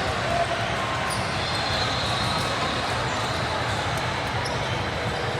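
Basketball bouncing on a gym floor amid a steady wash of crowd and court noise in a large hall.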